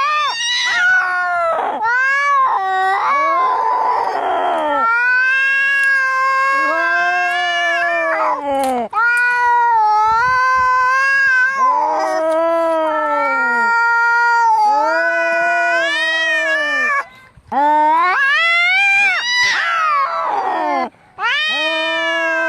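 Cats caterwauling in a fight: long, wavering yowls that rise and fall in pitch, going on almost without a break, with a rasping, noisy stretch about four seconds in.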